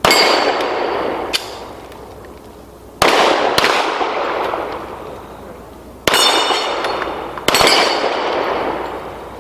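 Pistol shots fired at steel targets, about five sharp reports spaced a second or more apart, each followed by a long fading echo. Some are followed by the ringing of a struck steel plate.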